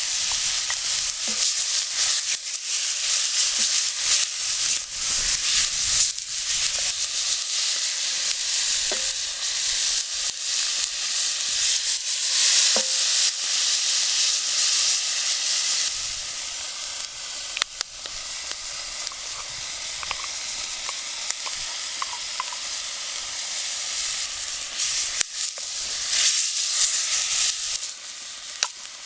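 Food sizzling in a pan over a wood fire, stirred with a utensil, with scattered clicks and scrapes. The sizzle is loud at first and drops somewhat about halfway through.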